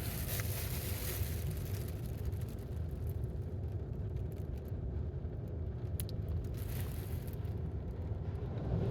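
Automatic car wash rinse heard from inside the car's cabin: water spray hissing against the car over a steady low rumble. The spray is loudest at the start and again about six seconds in.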